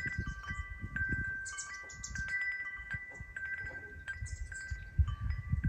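Wind chime ringing in the breeze: its tuned tubes struck irregularly, a few times a second, each ringing on at one of a handful of fixed pitches. A low rumble runs underneath.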